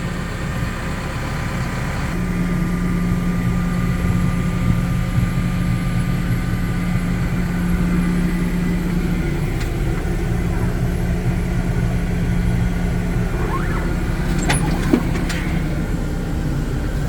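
Diesel engine of a Cat CS54B vibratory soil compactor idling steadily, its low hum getting a little stronger about two seconds in. A few brief higher sounds come near the end.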